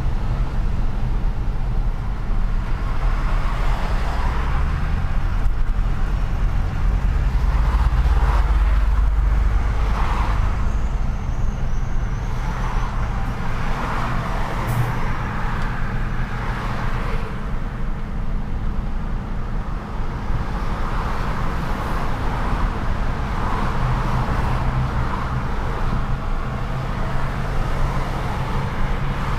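Truck's diesel engine running under way, a deep steady rumble that grows heavier around eight seconds in, over road and city traffic noise that swells and fades as vehicles pass.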